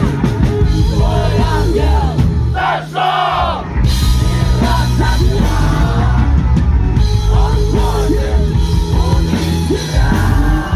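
Heavy metal band playing live: distorted electric guitars, bass and drums, with a male voice singing and yelling over them. The bass and drums drop out briefly about two and a half seconds in, then the full band comes back.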